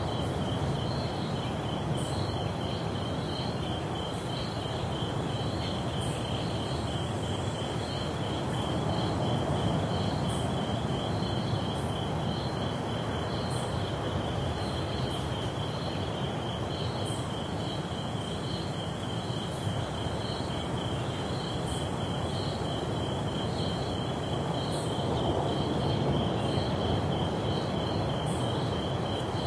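Tropical rainforest insects, crickets among them, keeping up a steady fast-pulsing high trill with a second repeating chirp above it and occasional sharp high ticks. Under them runs the continuous low wash of ocean surf, swelling gently now and then.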